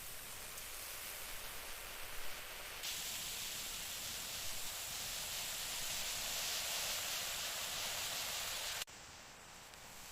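Food sizzling in a hot pan over a campfire: a steady hiss that gets louder and brighter about three seconds in, then cuts off abruptly near the end.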